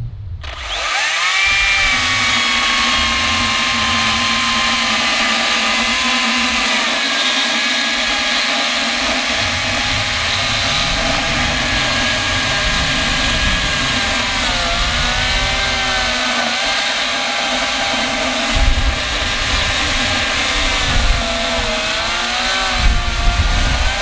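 Makita DUC254Z 18-volt brushless cordless chainsaw cutting into a thick piece of very hard old timber, which the owner takes for ironbark. The motor whine starts about half a second in and holds steady at first. In the second half it dips in pitch several times as the chain bogs under load: the saw is struggling with a cut that is almost too big for it.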